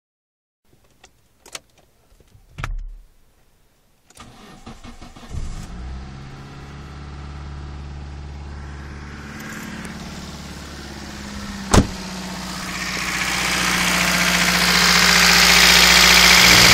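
Mitsubishi Carisma 1.6 four-cylinder petrol engine starting about four seconds in, after a few clicks, then running steadily; the engine has one scored cylinder with only 4 bar compression. There is a single sharp knock near 12 seconds, and the engine noise grows steadily louder toward the end.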